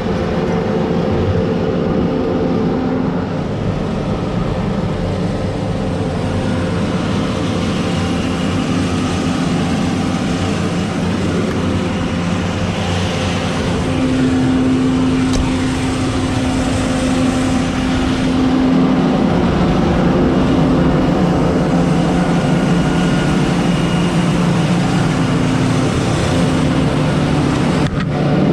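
Combine harvester running steadily at harvest, a continuous diesel engine drone with hum tones that swell and fade.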